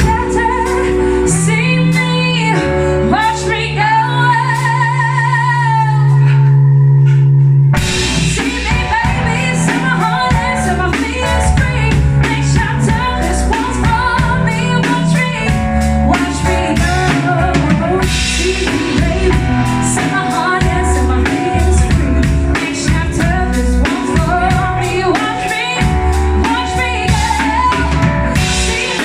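Live rock band with a woman singing: a long held vocal note with vibrato over sustained bass, then about eight seconds in the drums and full band come in together.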